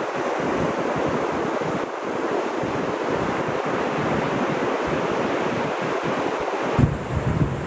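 Ocean surf washing on a beach, a steady hiss of breaking waves. About seven seconds in, wind starts buffeting the microphone with a low rumble.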